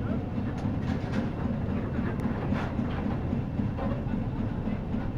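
The twin-screw steamer Nixe's two upright three-cylinder compound steam engines running under way, a steady, low, fast-pulsing chug.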